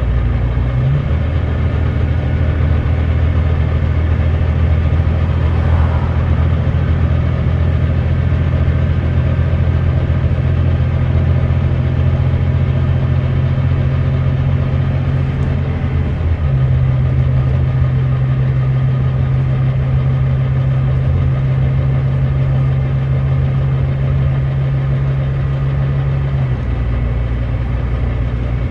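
Volvo D9B 9.3-litre diesel engine of a Volvo B9TL double-decker bus working under load through its ZF Ecolife automatic gearbox, an engine the uploader labels as misfiring. The engine note steps up about a second in, runs steady, falls in pitch about sixteen seconds in as the gearbox changes, then settles to a lower note near the end.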